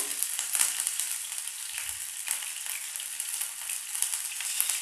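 Cumin and mustard seeds, chopped garlic and grated ginger sizzling in hot oil in a nonstick frying pan, with scattered small pops and crackles: the tempering stage, the garlic and ginger being roasted.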